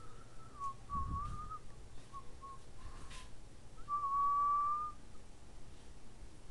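A person whistling: a few short wavering notes, then one long steady note near the end. There is a low thump about a second in.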